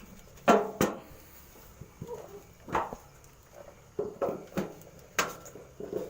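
A series of irregular knocks and clatters, about eight in six seconds, the loudest about half a second in.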